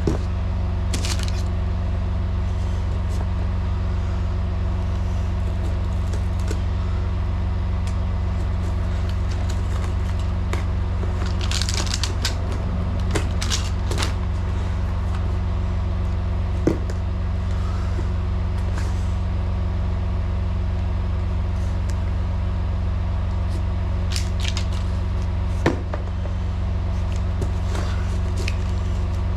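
Semi truck's diesel engine idling steadily, a constant low hum. A few light clicks and rustles are heard, about 12, 14, 17 and 26 seconds in.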